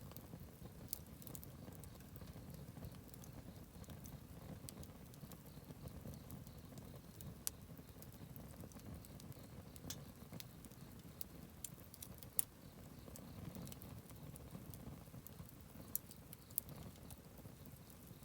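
Wood campfire burning: a low steady rumble of flame with scattered sharp crackles and pops from the burning wood, the loudest pop about two-thirds of the way through.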